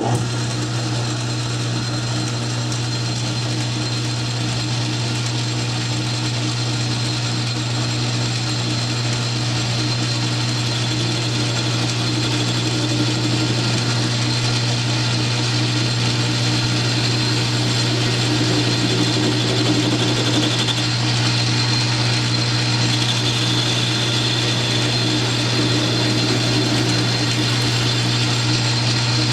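South Bend metal lathe switched on and running steadily with a constant low hum, taking a facing cut across the end of a steel pulley blank.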